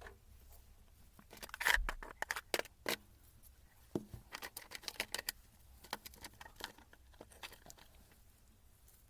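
Handling sounds: a scatter of short clicks, taps and brief rustles, loudest and densest about two seconds in, thinning out after about seven seconds.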